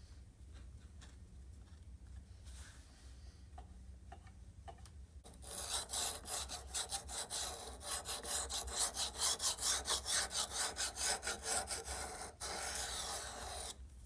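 Hand abrading of the trimmer's metal: rhythmic rasping strokes, about two to three a second, start about five seconds in, then give way to a steadier rub near the end that stops suddenly.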